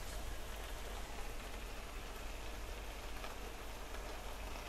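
Beetroot halwa sizzling steadily in a frying pan on the stove, a soft even crackle from the thick mixture as it cooks down to halwa consistency.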